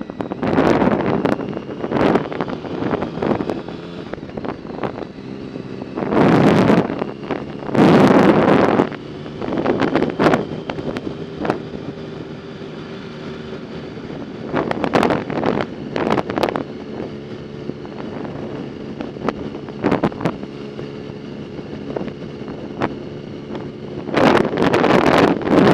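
Wind buffeting the microphone in repeated loud gusts during a ride, over a steady low hum from the moving vehicle.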